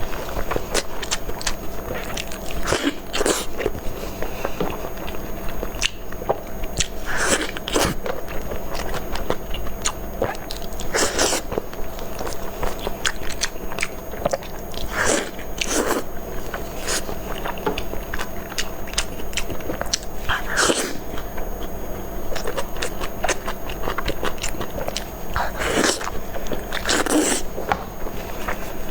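Close-miked mouth sounds of a person eating: biting and chewing, with many small clicks and a louder bite every few seconds.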